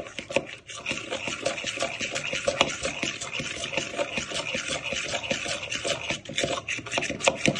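A fork whisking a liquid marinade in a mixing bowl: quick, continuous clicking and scraping of the tines against the bowl.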